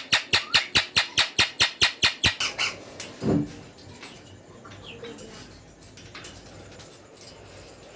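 Green ringneck (rose-ringed parakeet) chicks begging while being hand-fed: a fast, even run of calls about six a second that stops a little over two seconds in, then one short lower call and faint scattered chirps.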